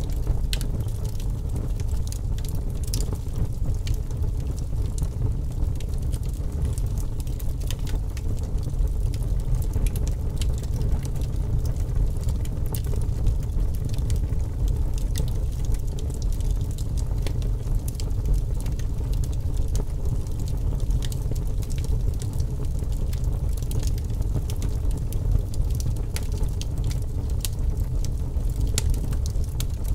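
Wood fire burning in a fireplace: a steady low roar of the flames with frequent irregular crackles and pops.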